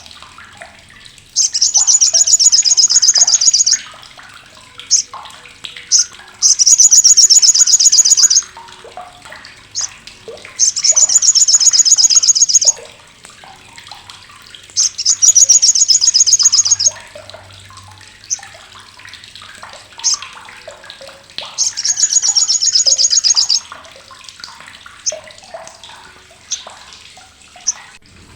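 Olive-backed sunbird (sogok ontong) giving its loud, harsh, rapid chattering call (crecetan) in five bursts of about two seconds each, with short single chirps between them.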